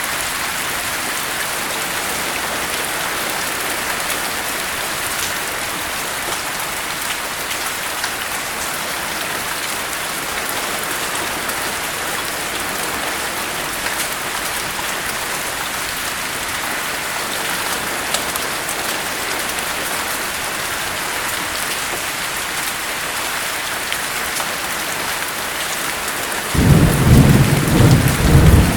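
Steady heavy rain falling, with scattered drop ticks through the hiss. Near the end a loud, low roll of thunder breaks in suddenly.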